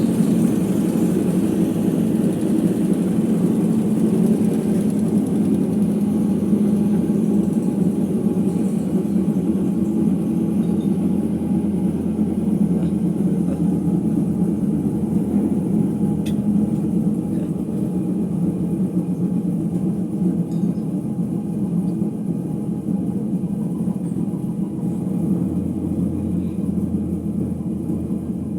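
Ipso HF 65 commercial washer-extractor in its final spin, a steady rumble from its bad drum bearings, slowly getting quieter across the stretch.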